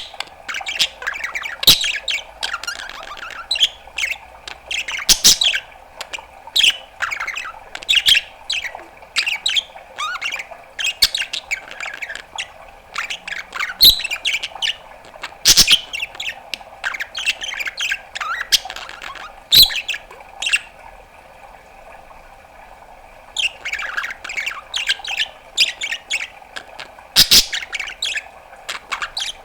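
Budgerigar chattering: a fast run of squawks, chirps, clicks and warbles, with a lull of a couple of seconds about two-thirds of the way through.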